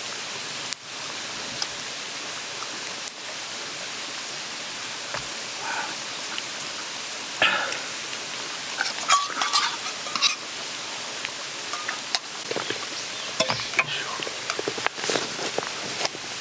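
Steady rushing of a mountain stream, with scattered light clicks and scrapes from about seven seconds in.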